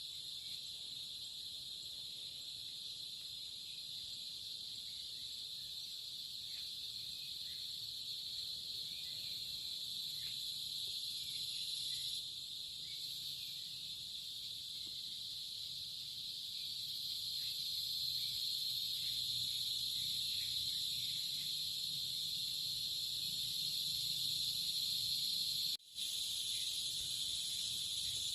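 Steady, continuous chorus of insects, typical of crickets, a dense high-pitched trill that swells slightly partway through. Near the end the sound cuts out for an instant.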